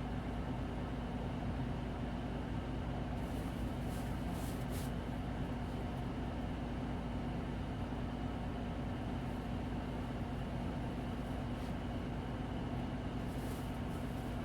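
Interior running sound of a Hino Blue Ribbon City Hybrid diesel-electric city bus: a steady engine and drivetrain hum over road noise, with a few faint brief hisses about 3 to 5 seconds in and near the end.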